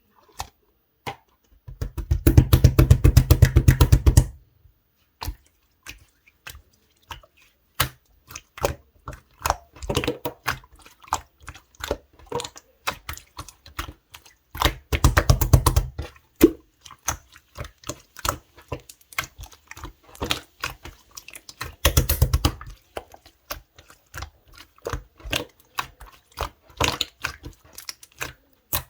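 Clear blue slime being squished and worked by hand: a steady scatter of sticky clicks and small pops. About two seconds in, fifteen seconds in and again around twenty-two seconds there are runs of dense, rapid crackling.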